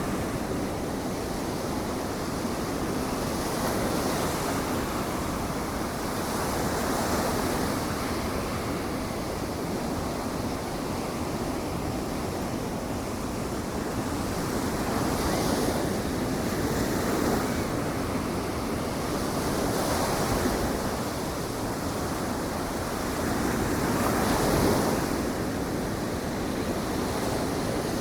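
Ocean surf breaking and washing on the beach, swelling and easing every few seconds, with wind on the microphone.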